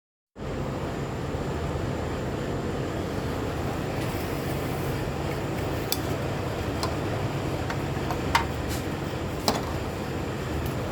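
Steady mechanical background hum, with a handful of short, sharp metallic clinks in the second half from hand tools on the exhaust parts.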